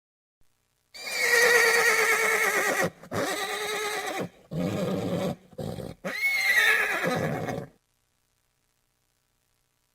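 A horse whinnying: a long, quavering neigh, then several shorter, lower calls, then a second neigh that stops sharply about three-quarters of the way through.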